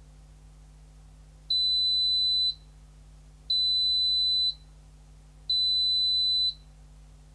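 Zanussi ZKN7120L washing machine's electronic buzzer sounding three long, high-pitched beeps of about a second each, spaced two seconds apart, the pattern typical of an end-of-programme signal. A faint steady low hum lies underneath.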